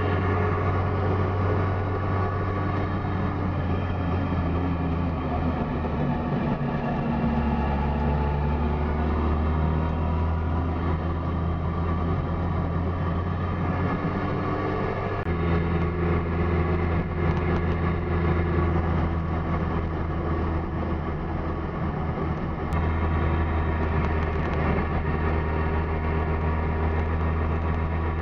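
Goggomobil's small two-stroke twin-cylinder engine running steadily while driving, heard from inside the car. Its drone jumps to a new pitch abruptly a few times.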